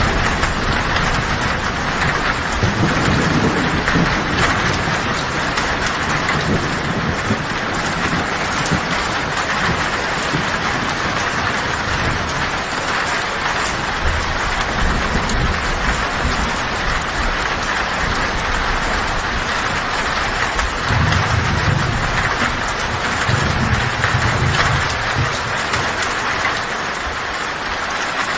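Heavy rain falling on a tin roof in a steady, dense hiss, with low thunder rumbling several times: a few seconds in, around the middle, and twice more later on.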